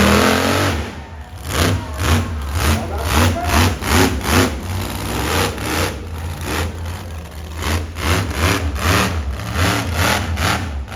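Monster truck engine running with a steady low rumble, revving up sharply at the start and then surging in quick repeated throttle blips, about two a second.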